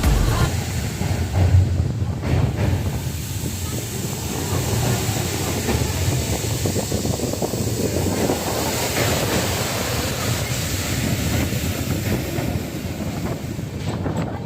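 Train running along the track with a steady rumble and fine rattling of wheels on rails.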